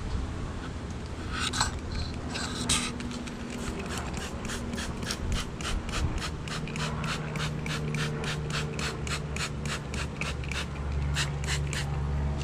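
Trigger spray bottle squirting sugar syrup onto hive frames in quick repeated pumps, about three or four a second, with a short final burst of squirts near the end.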